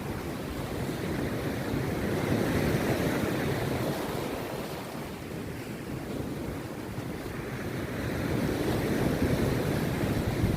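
Rough sea surf breaking on a beach: a steady wash of waves that swells twice, with wind buffeting the microphone.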